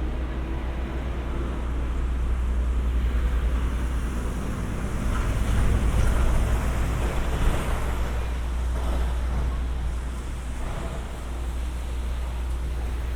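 City street traffic on wet pavement, a steady noisy rush over a low rumble, swelling to its loudest about six seconds in.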